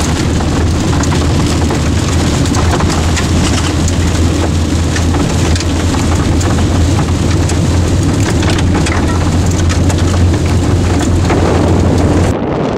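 Heavy rain drumming on a vehicle's roof and windshield, a dense hiss full of sharp drop taps over a steady low rumble. Near the end the sound changes abruptly, the hiss and rumble dropping away.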